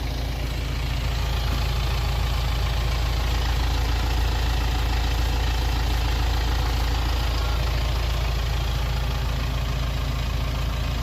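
BMW X3 engine idling steadily with a freshly replaced timing chain, running without the chain rattle it had before the repair.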